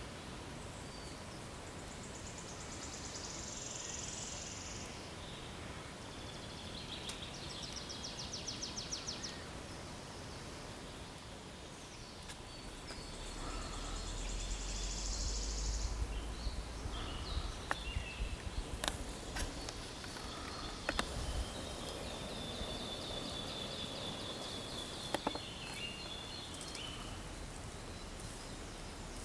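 Forest ambience: songbirds singing short, high, rapidly trilled phrases, several times over. A low rumble rises about halfway through, and a few sharp clicks follow.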